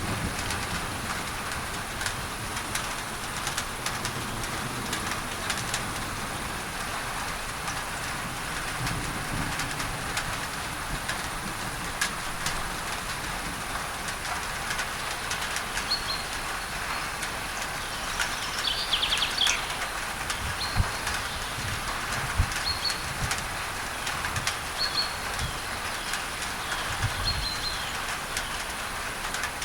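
Rain pattering on a tin roof under a steady hiss of added masking noise. From about halfway through, a bird calls a series of short high chirps a second or two apart.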